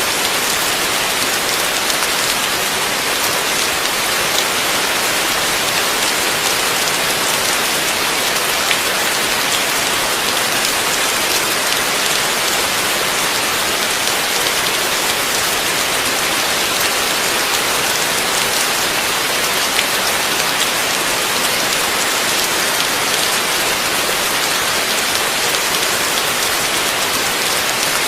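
Heavy rain falling steadily, a dense even hiss of many drops with fine pattering.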